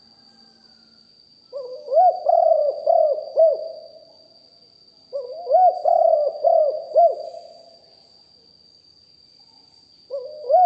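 Spotted dove cooing: two full phrases of four or five deep, arched coos, starting about one and a half and five seconds in, and a third phrase beginning near the end. A faint steady high whine runs underneath.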